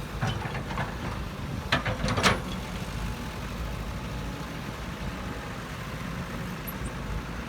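Heavy diesel engine running steadily at low revs, with a few short sharp knocks about two seconds in.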